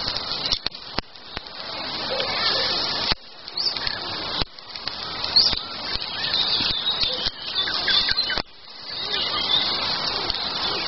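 Songbirds singing in woodland, many short chirps and phrases overlapping, over a steady rushing background that drops abruptly twice.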